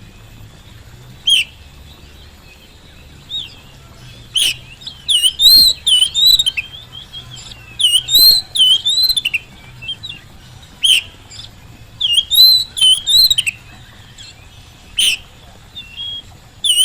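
Oriental magpie-robin (kacer) singing loud, sharp, swooping whistled notes in quick clusters, several phrases broken by short pauses.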